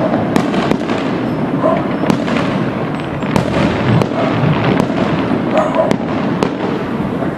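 Fireworks going off in quick succession: many sharp pops and crackles over a steady rumble of bursts.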